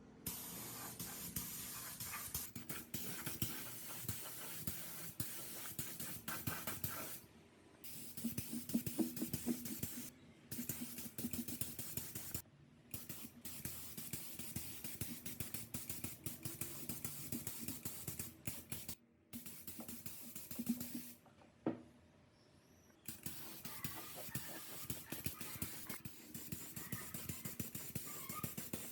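Rapid scratching and scraping of hand work on metal parts, in a string of short sections that each start and stop abruptly.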